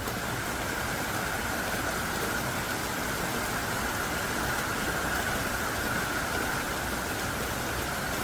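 Heavy rain pouring down in a steady, dense hiss, with a few faint drop ticks over it.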